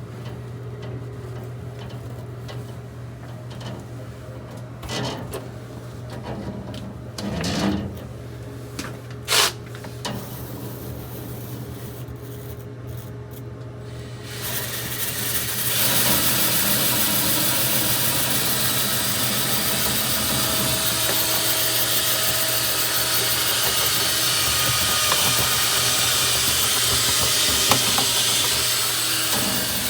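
Dryer-vent cleaning machinery: a motor hums with a few knocks and scrapes. About halfway through, a loud, steady rush of air starts and keeps going.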